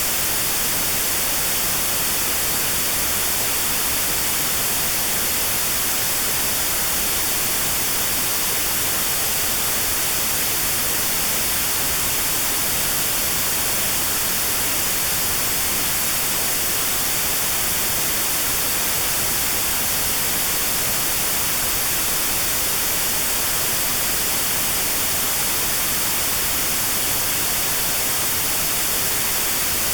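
Steady white noise hiss with a narrow band cut out around 4 kHz: notched sound therapy noise for tinnitus at 4 kHz.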